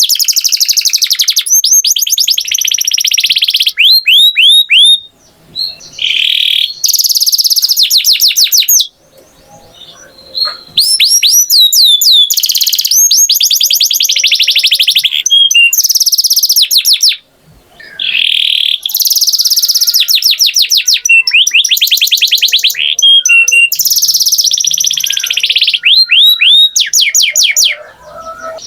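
Domestic canary singing: long rolls of rapidly repeated high notes and runs of quick sweeping notes, broken by a few short pauses.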